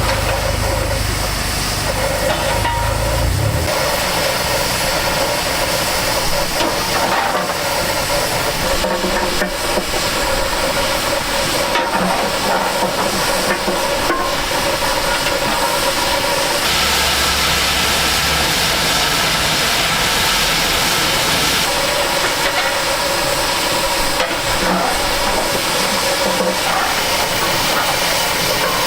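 Narrow-gauge steam locomotive hissing steam steadily, growing louder in a stretch from about seventeen to twenty-two seconds in.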